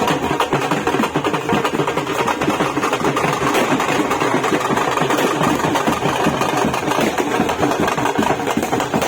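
A long string of firecrackers going off, a dense, rapid, unbroken crackle of small bangs.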